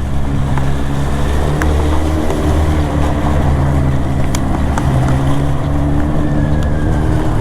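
Motorcycle engine running at a steady cruising speed, with wind noise over it.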